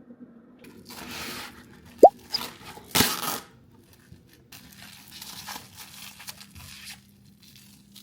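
Handling noises: rustling and crinkling, a short sharp rising pop about two seconds in, and a louder crunchy burst about a second later.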